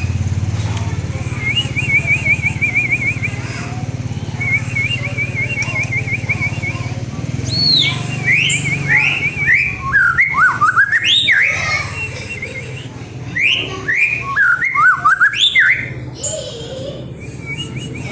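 White-rumped shama (murai batu) song: two rapid trilled phrases, then from about seven seconds in a run of loud, sweeping whistles that rise and fall in pitch.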